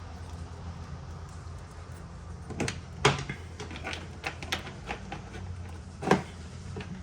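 Sharp knocks and clicks of hand work with tools and parts on a car, over a steady low hum. The loudest knock comes about three seconds in, a run of lighter clicks follows, and there is another knock about six seconds in.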